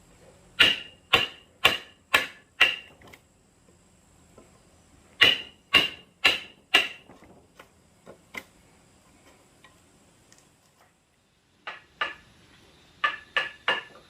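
Hammer blows on wood, in runs of four or five strikes about two a second, each with a short ring.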